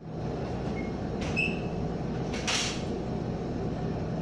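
Taiwan Railway local electric multiple-unit train heard from inside the carriage as it moves off from the station: a steady low rumble of the running train. There is a brief high-pitched tone a little over a second in and a short hiss about two and a half seconds in.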